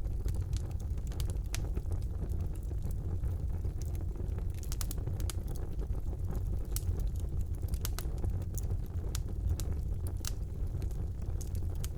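Wood fire burning in a fireplace: a steady low rumble of the flames with scattered sharp pops and crackles from the burning logs.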